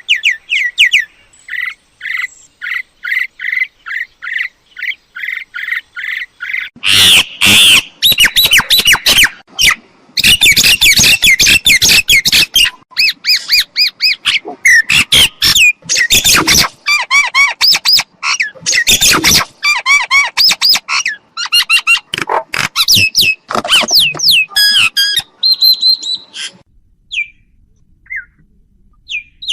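Myna calling: a quick series of short repeated notes, then about seven seconds in a long, loud, dense run of harsh squawks and whistled notes that thins out near the end.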